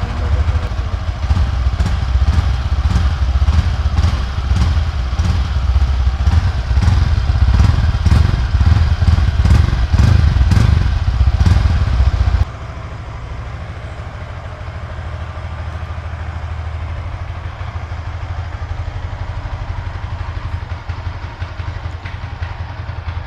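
Yamaha R15M V4's 155 cc single-cylinder engine running through its stock exhaust just after starting. It runs loud with quick repeated pulses for about twelve seconds, then drops abruptly to a quieter, steady idle.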